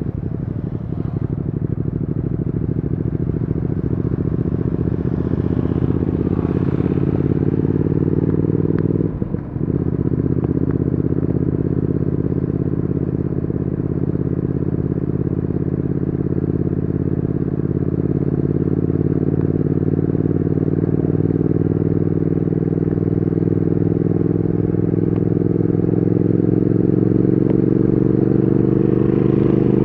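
Triumph Speed Twin 1200's parallel-twin engine and exhaust running under way, its pitch slowly climbing as the bike gathers speed. There is one brief dip in the sound about nine seconds in, after which the engine pulls and climbs again.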